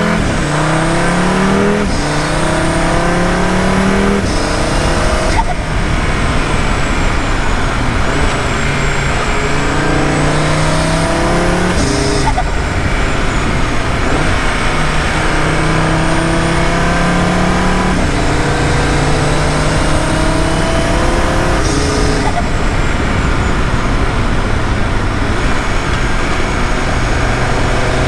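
Audi RS3's turbocharged 2.5-litre five-cylinder engine accelerating hard through the gears: the pitch climbs during each pull and drops at each shift, several times over. A thin, high turbo whistle glides above the engine.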